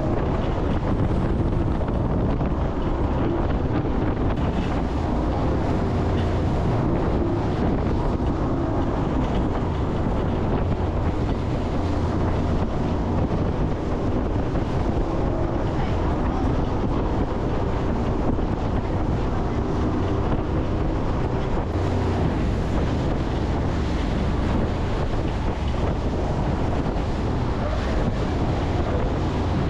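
Jet boat running at speed: a steady rush of engine and water, with wind buffeting the microphone.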